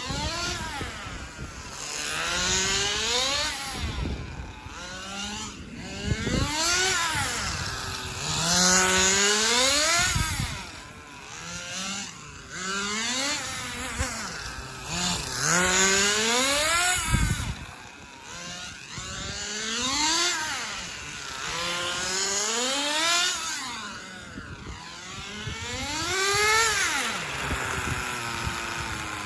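Small glow (nitro) engine of a Kyosho Super Ten radio-controlled car, run at high revs. Its whine rises and falls over and over, every two to three seconds, as the throttle opens and closes and the car passes by.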